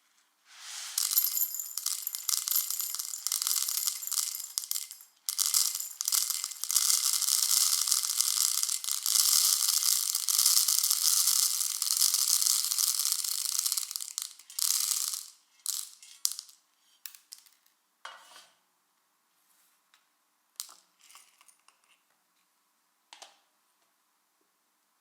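Coffee beans rattling against a hard container for about fourteen seconds, with a short break near the start, then a few scattered clicks and ticks.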